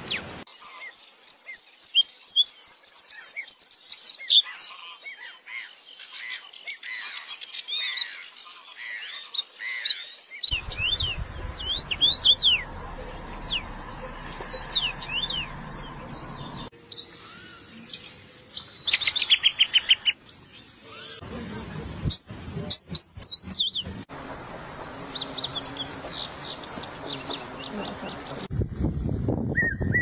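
Several different songbirds singing and calling in turn, spliced one after another: fast runs of high chirps, sweeping whistled notes and rapid trills, the background changing abruptly every few seconds as each new recording starts.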